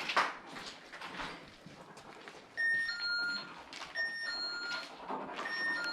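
Scattered knocks and scuffs, then from about two and a half seconds in an electronic device beeping a repeating two-note pattern, a higher tone dropping to a lower one, about every second and a half.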